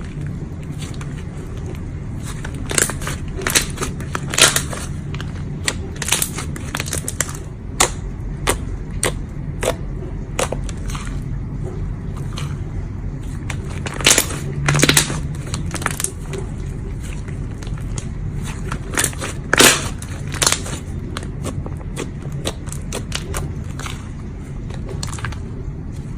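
Slime being squeezed and poked, making irregular crackling and popping clicks, with louder bursts of pops now and then over a steady low hum.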